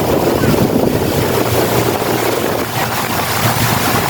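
Boat motor running steadily under way, with wind noise on the microphone.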